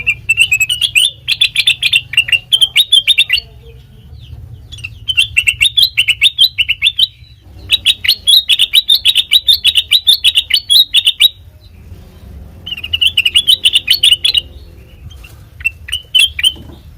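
Kutilang mas bulbul singing loud runs of rapid, chirping notes, in phrases of one to three seconds separated by short pauses.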